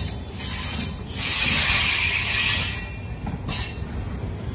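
Moving train heard from its open doorway: steady rumble of wheels on the rails under a rushing hiss that swells loudly for about a second and a half in the middle.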